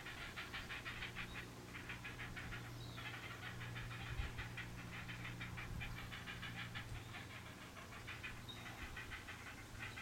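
Large long-necked birds at a nest calling in fast, even chattering runs of a second or two each, the begging calls of young being fed, over a steady low hum.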